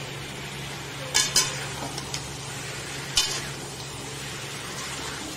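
Spiced chicken pieces sizzling in a wok as they are stirred with a slotted metal spatula, with a few sharp clinks of the spatula against the pan, the loudest a little over a second in and at about three seconds.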